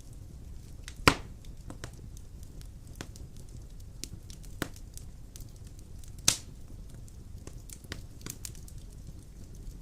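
Wood fire burning in a stone fireplace: a low steady rumble with scattered crackles and two loud pops, about a second in and near six seconds.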